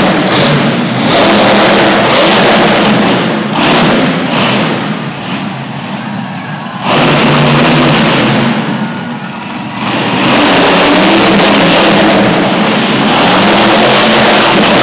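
Monster truck engine revving hard. The throttle backs off twice, from about four to seven seconds in and again around eight to ten seconds, then opens up loud again.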